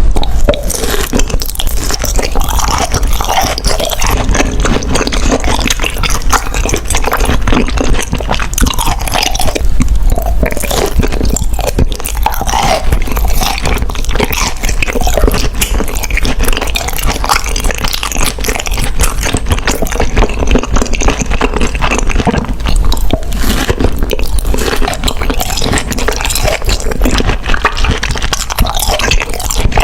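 Close-miked eating sounds: continuous crunching, biting and chewing of food.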